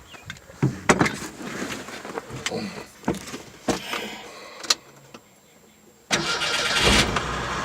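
1989 Ford Ranger engine starting after sitting for seven days: about six seconds in it cranks and catches almost at once, then keeps running steadily. Before that there are scattered short clicks and knocks.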